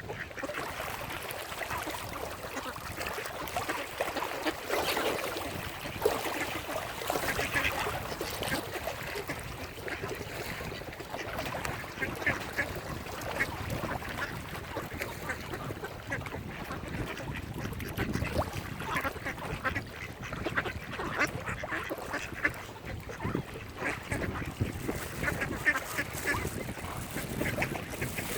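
Mallard ducks quacking, many short calls overlapping.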